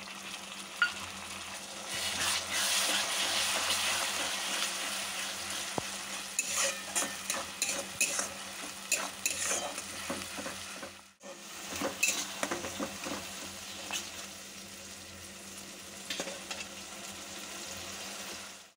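Tomato purée sizzling as it fries in hot oil, with a steel spatula stirring and scraping against the bottom of a coated frying pan in quick repeated strokes. The sizzle is loudest in the first few seconds, and the sound cuts out briefly about eleven seconds in.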